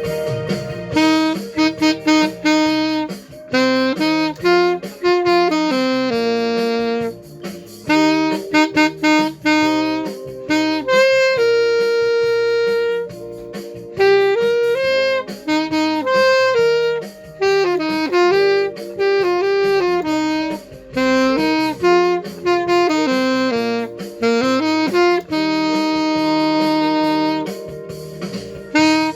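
Saxophone playing a song melody in phrases of held and moving notes, with short breaks between phrases, over a cha-cha backing track.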